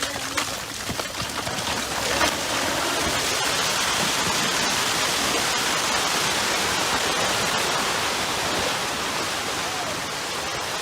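Steady rush of heavy rain pouring down in a storm, building over the first two seconds, with a few clicks and a sharp crack about two seconds in.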